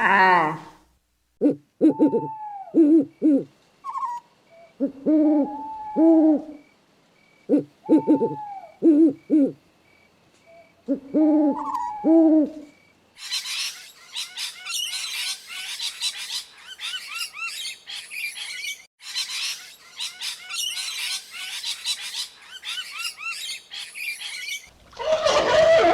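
An owl hooting in short clusters of low hoots, then a flock of parrots screeching and chattering from about halfway through. Near the end a seal starts calling.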